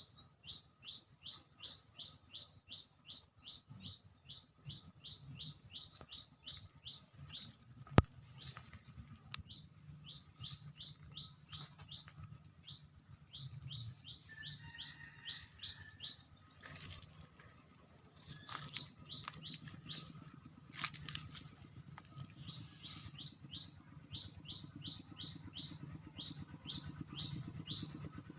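A bird chirping over and over, short falling chirps at about three a second in long runs with brief pauses. A single sharp click sounds about eight seconds in, over a faint low rumble.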